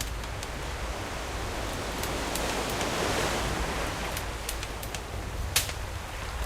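Sea waves washing ashore, one wave swelling to a peak about three seconds in and drawing back, over a steady low rumble of surf. Campfire crackles click now and then, with one sharp pop near the end.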